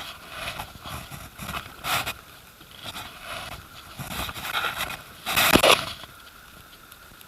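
Kayak paddle strokes splashing in river water: a run of irregular swishes, the loudest about five and a half seconds in.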